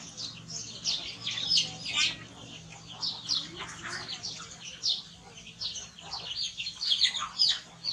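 Small birds chirping: quick, high, falling chirps, several a second, over a faint steady low hum.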